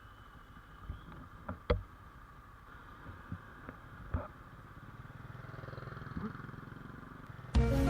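GPX Demon GR200R motorcycle running on the road, its engine sound building up over the second half, with a couple of sharp knocks about two and four seconds in. Music comes in suddenly near the end.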